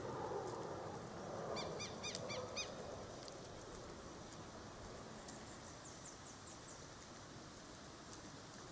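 A bird calling a quick run of about six short, clipped notes about a second and a half in, followed later by faint high chirps.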